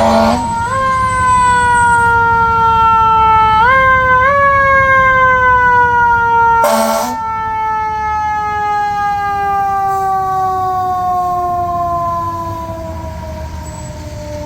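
Fire truck siren: a wailing tone that jumps up in pitch several times, the last two jumps about four seconds in, then glides slowly down and fades near the end. Two short, loud blasts cut across it, one at the start and one about seven seconds in.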